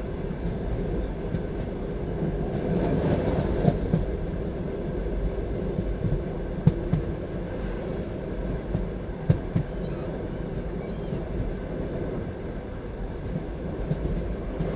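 Passenger train carriage running along the line: a steady rumble of wheels on track, with a few sharp knocks as the wheels cross rail joints.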